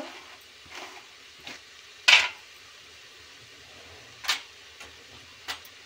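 Chopped onions and ground spices frying in oil in a pressure cooker, giving a low steady sizzle. A metal spoon scrapes against the pot about five times at uneven intervals, loudest about two seconds in.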